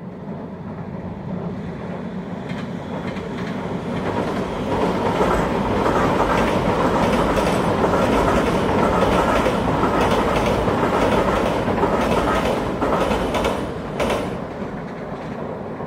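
Nankai or Semboku electric train passing, its wheels clattering over the rail joints. It grows louder over the first few seconds, stays loud, and eases off after a final click about 14 seconds in.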